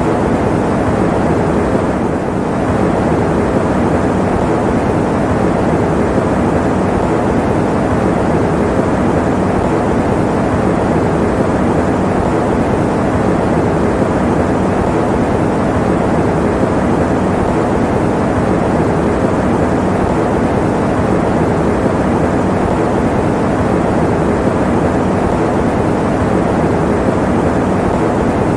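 Fan running steadily: a constant, even rushing noise, strongest in the low and middle range with little high hiss.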